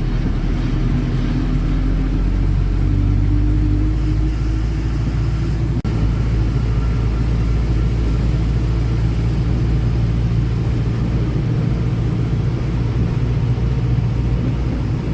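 Ashok Leyland Ecomet truck's diesel engine running under way: a steady low drone that rises slightly in pitch over the first few seconds, with a brief dip about six seconds in.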